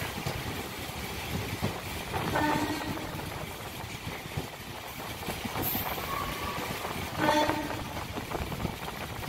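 Electric MEMU passenger train running, heard from inside the carriage as a steady rumble and rattle. Two short pitched sounds rise above it, about two and a half and seven seconds in.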